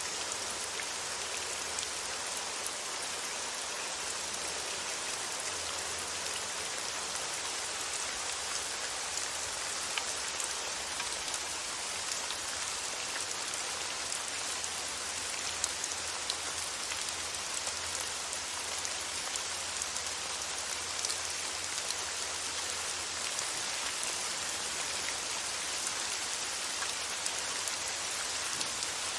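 Steady rain: an even hiss of rainfall with a patter of small drops ticking on a surface.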